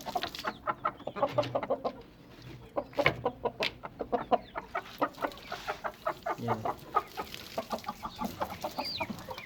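Chickens clucking, many short calls in quick runs, with other birds calling among them.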